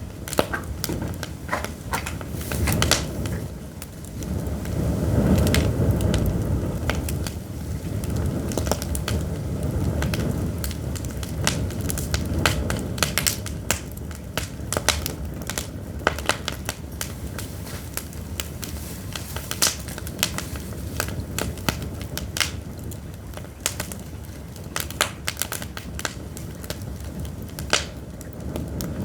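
Pine firewood burning in an open fire, crackling with many sharp pops and snaps all through. Underneath runs a low rushing sound that swells about five seconds in.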